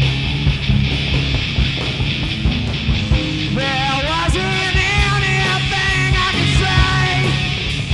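Loud punk-style rock band playing, with distorted guitars, bass and drums. A single melodic lead line with bending pitches comes in about three and a half seconds in and drops out near the end.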